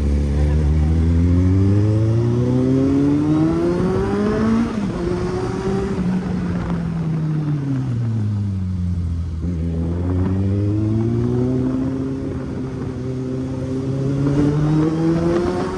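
Kawasaki Z800's inline-four engine on the move: its note climbs under acceleration for about four seconds, falls away as the throttle eases off, then climbs again toward the end.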